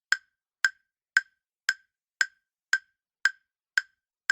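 Quiz countdown-timer sound effect: sharp, evenly spaced ticks, about two a second.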